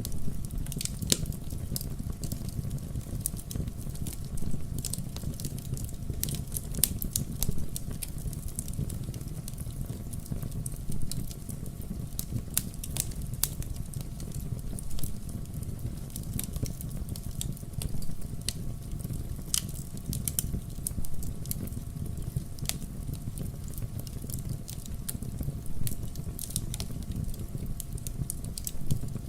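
Wood fire burning in a fireplace: a steady low rumble of the flames with irregular sharp crackles and pops of the burning logs throughout.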